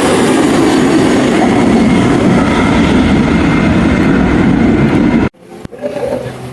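Loud, steady roar of a passing aircraft's engines, cut off suddenly about five seconds in, after which a quieter, different background sound follows.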